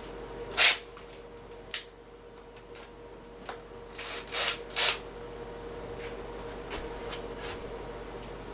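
Short scrapes and clicks of a screwdriver bit working against the metal hinge parts and screw of a washer door: one under a second in, another near two seconds, and three close together around four to five seconds, over a faint steady hum.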